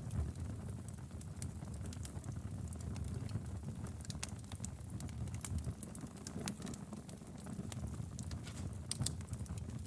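Wood fire burning in a fireplace: a low steady rumble of flames with frequent irregular sharp crackles and pops.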